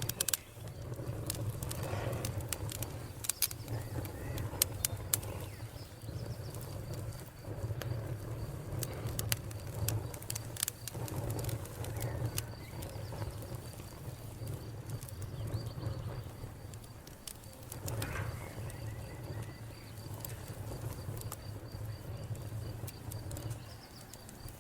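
Wood fire burning in a fireplace: logs crackling with scattered sharp pops over a low steady rumble of flame.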